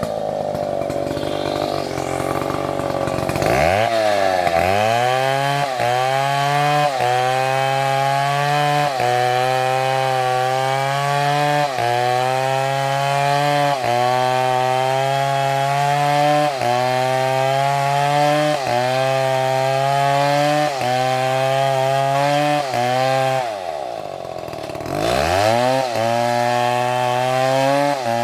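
Chainsaw engine running at high revs while cutting wood, its pitch sagging under load and recovering about once a second. Twice, a few seconds in and again near the end, the engine drops almost to idle and revs back up.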